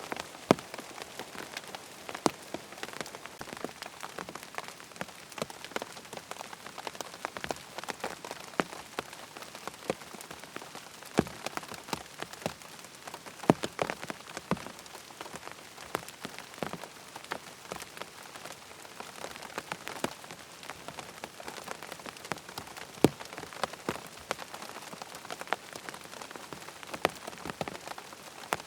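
Rain falling on a tent: a steady patter with many separate, irregular drop impacts, now and then a louder single drop.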